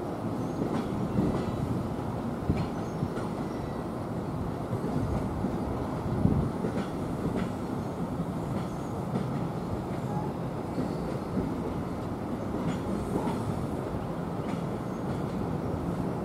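Passenger train rolling past on the Northeast Corridor: a steady rumble of wheels on rail, with scattered clicks from the wheels.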